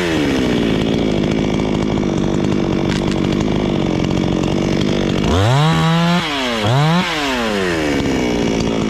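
Chainsaw engine idling steadily, revved up twice in quick succession about five and a half and seven seconds in, then settling back to idle.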